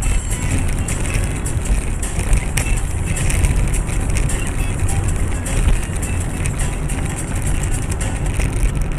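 Steady engine and road rumble of a moving vehicle, heard from inside its cabin.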